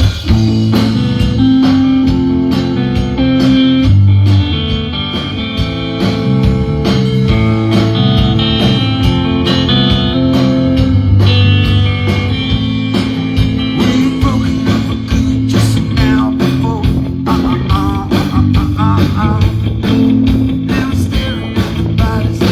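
Live band playing blues-rock: guitar over bass guitar and a drum kit, at a steady beat.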